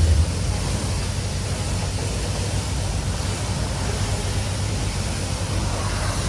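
Steady rushing hiss of a car-wash pressure wand spraying water onto a car.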